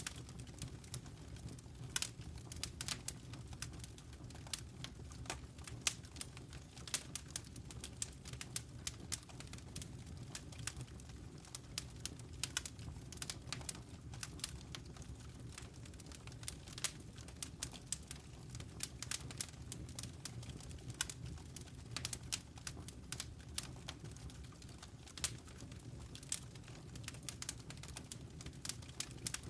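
Wood fire burning in a fireplace, crackling with irregular sharp pops several times a second over a low steady rumble.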